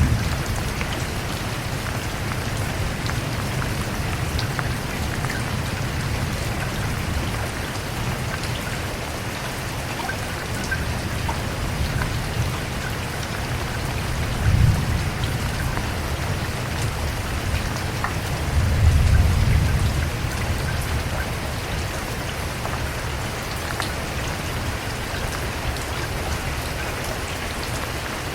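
Steady rain falling on a surface, an even hiss with scattered drop ticks. Low rumbles of distant thunder swell briefly about halfway through and again about two-thirds of the way in.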